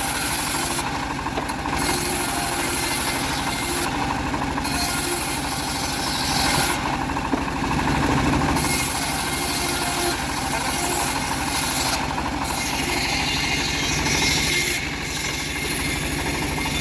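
Homemade bandsaw machine running steadily while sawing old teak wood, its engine drone overlaid by a high hiss that drops away briefly every few seconds.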